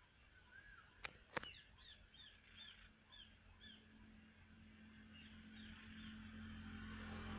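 Faint birdsong: a run of short, repeated arched chirps. Two sharp clicks come about a second in, and a low engine hum slowly grows louder through the second half.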